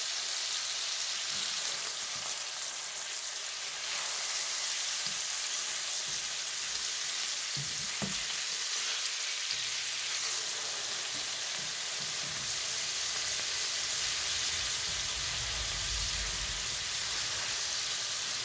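Hamburger patties frying in a pan, a steady sizzle throughout, with a spatula working the pan as they are turned and a short knock about eight seconds in.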